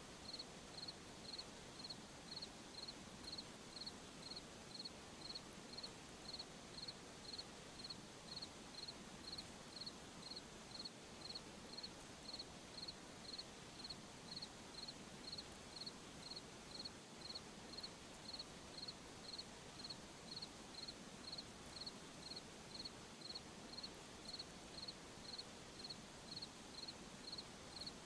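A cricket chirping in a steady, even rhythm, about one and a half high-pitched chirps a second, over a faint hiss of night ambience.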